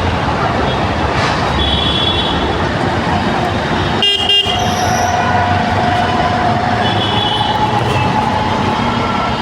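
Dense road traffic in a jam: engines running under a steady din, with several vehicle horns honking in long held toots. A short crackle comes about four seconds in.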